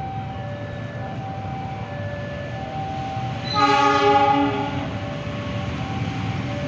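A train horn sounds one blast of about a second, a little past the middle, over the steady rumble of a train on the rails. Throughout, a warning alarm alternates between two tones.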